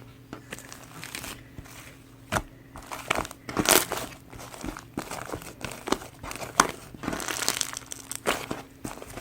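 Purple slime being squished and pressed by hand, giving irregular crackling and popping clicks that grow louder and denser a couple of seconds in.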